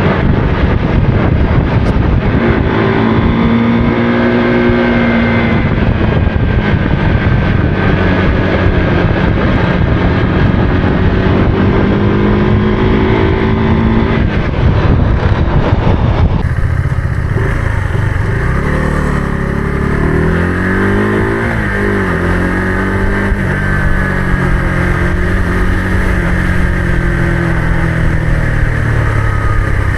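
Motorcycle engine running under way, its pitch rising and falling with the throttle, over a steady rush of noise. About sixteen seconds in the sound changes abruptly to another stretch of riding, with the engine note lower and gliding up and down.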